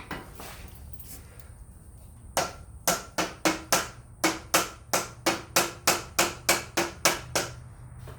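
A hammer striking steel backhoe attachment parts in a quick run of about eighteen blows, about four a second, each with a short metallic ring. The blows start a couple of seconds in and stop near the end.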